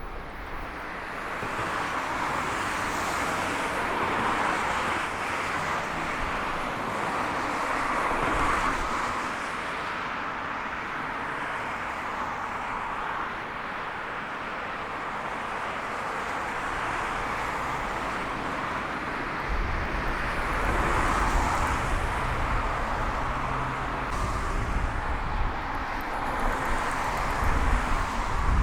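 Freight train passing at speed, a steady rushing rumble of its wagons rolling by, building in level over the first few seconds. Wind buffets the microphone with a low rumble in the last third.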